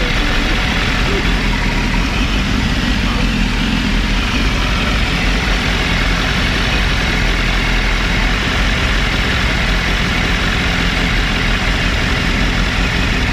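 BMW S1000RR's 999 cc inline-four engine idling steadily, a fast even low pulse that holds at one speed.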